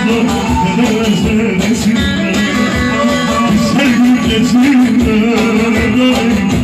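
A Turkish song: a voice singing a melody over instrumental backing with plucked strings.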